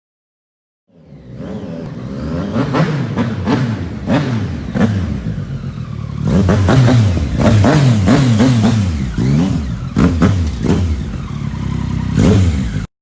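A motor vehicle engine revving up and down over and over, with sharp cracks among the revs. It starts about a second in and cuts off suddenly near the end.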